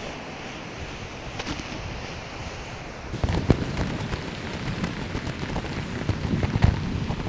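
Ride noise of a Onewheel board: tyre rolling noise on the path and wind on the microphone, a steady rush that turns louder and crackly about three seconds in, with many small knocks and low rumbles, as over a rougher surface.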